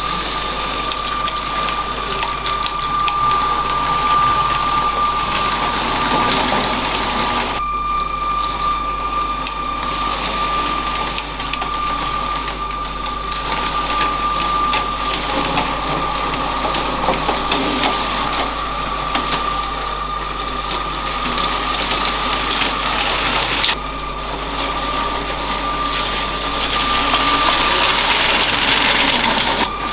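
LEGO train's small electric motor running with a steady high whine, the wheels clicking and rattling along plastic track. The sound cuts abruptly twice.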